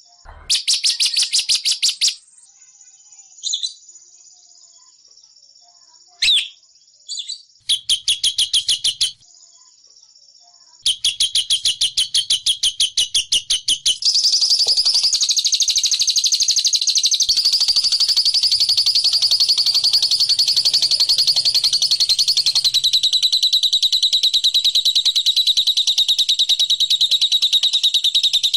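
A small songbird's rapid, high-pitched ticking trill, the 'ngekek' chatter used as a lure call for the bilabu (labet). It comes in several short bursts in the first half, then runs on as one continuous fast trill from about halfway in.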